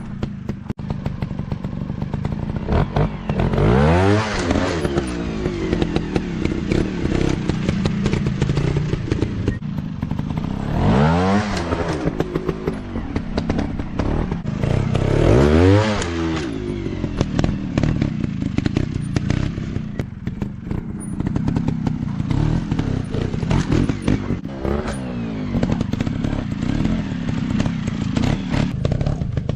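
Off-road dirt bike engine running and revving hard. It rises sharply in pitch three times, about 3, 11 and 15 seconds in, with a smaller rev near the end.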